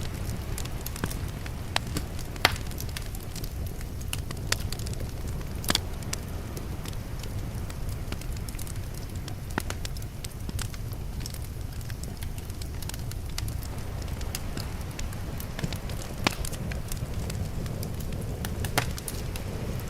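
Wood fire crackling, with scattered sharp pops, a few of them louder than the rest, over a steady low rumble.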